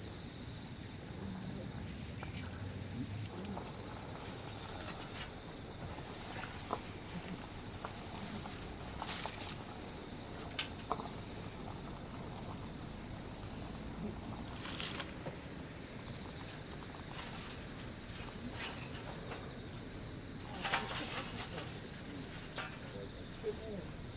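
Crickets trilling in one steady, unbroken high-pitched chorus, with a few short clicks and crackles scattered through it.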